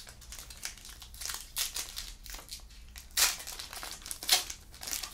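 Foil wrapper of a trading-card pack crinkling in irregular bursts as it is handled and opened, loudest about three and four seconds in.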